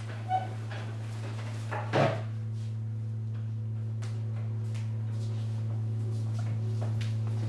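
Microwave oven running with a steady low hum. There is a short pitched sound about half a second in and a louder clunk, like its door or a cupboard shutting, about two seconds in.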